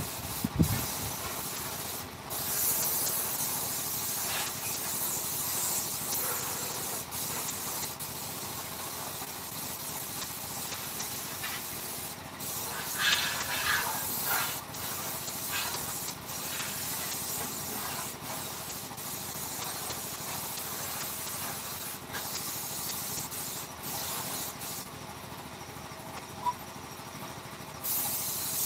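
A steady hiss of air or spray, stopping briefly for an instant several times along the way.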